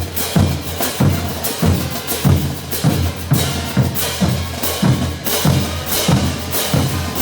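Bolivian brass band playing: held brass chords over a bass drum and cymbals beating a steady rhythm of about two strokes a second.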